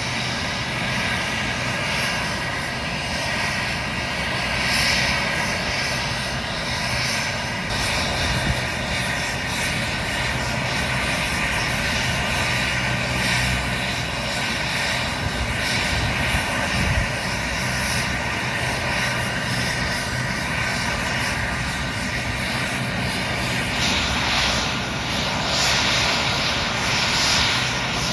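AgustaWestland AW139 twin-turbine helicopter running steadily, with a steady turbine whine over the rotor noise; a brighter hiss comes up near the end.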